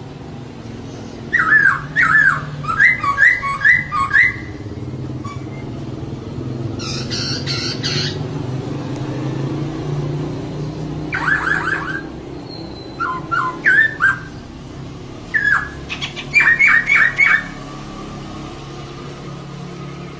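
Female poksay (laughingthrush) calling in bursts of quick repeated notes, several series separated by pauses, with a harsher rasping burst about seven seconds in. A steady low hum runs underneath.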